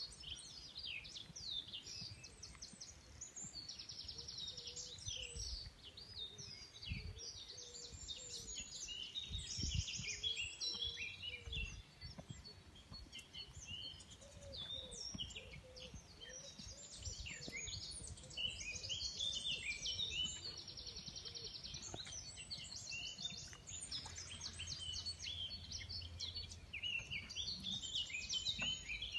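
Several songbirds singing together without a break, with many quick chirps and rapid trills.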